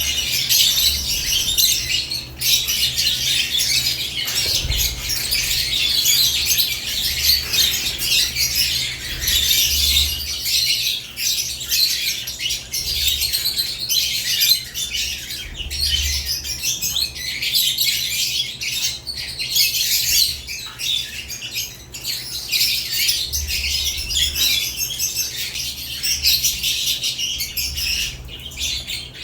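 Caged lovebirds chirping and squawking nonstop, many high-pitched calls overlapping with no pauses.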